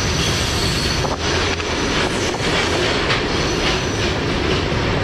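Steady rumble and rush of a moving freight train heard from on board, with irregular clacks of wheels over the rails.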